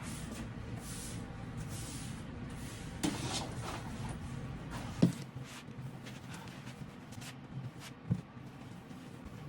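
Household knocks and bumps: three short thuds, the loudest about halfway through, with a few brief hissy rustles early on, over a steady low hum.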